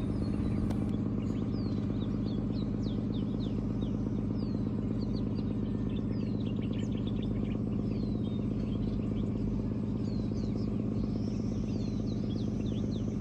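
Birds calling with many short, falling chirps over the steady, even hum of an engine running.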